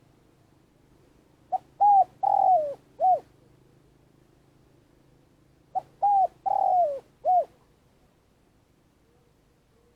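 Spotted dove cooing: two four-note coo phrases about four seconds apart, the third note of each the longest and falling in pitch.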